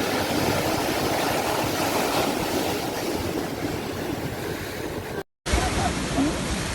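Sea surf washing steadily onto the shore. About five seconds in it cuts out to silence for a moment, then carries on.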